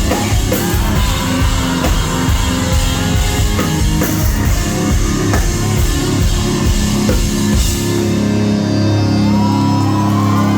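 Live rock band playing loud, with a busy drum kit under bass and guitars. About eight seconds in, the drums stop and the guitars and bass ring out on a held chord.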